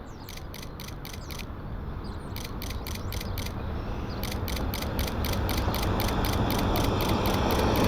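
Jet airliner engine noise building steadily louder as the aircraft approaches, with a rapid, even clicking of about four or five ticks a second over it.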